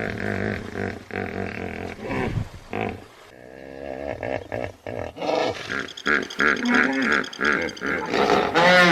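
Hippopotamus calling: a run of deep, rough grunts and honks that builds louder in the second half and ends in a few honks that rise and fall in pitch.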